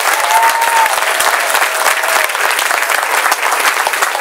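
Audience applauding, a dense patter of many hands clapping, with a few faint shouts or whoops in the first second.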